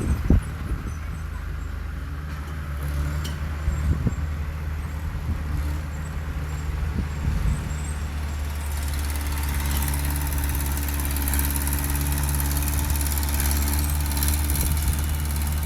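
Heavy diesel earthmoving machine engine running steadily, with a few knocks in the first seconds. About eight and a half seconds in, the engine grows louder and a high hiss comes in over it.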